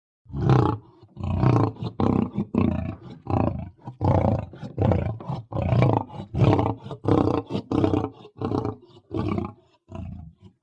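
Demonic female bodybuilder voice sound effect: a rapid run of low, growling roars in well over a dozen short bursts with brief gaps between them.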